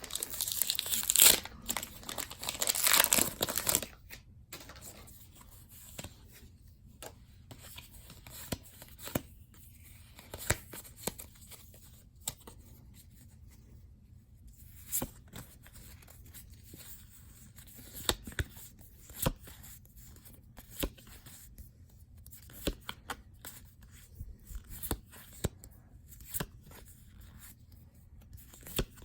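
A foil booster pack being torn open with a loud crinkling rip, then the cards inside handled and flipped through, giving soft scattered clicks every second or so.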